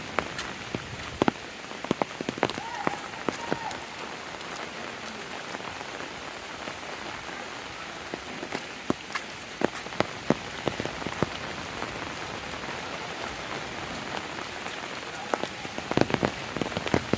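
Steady rain falling, with frequent sharp drops striking close by at irregular moments.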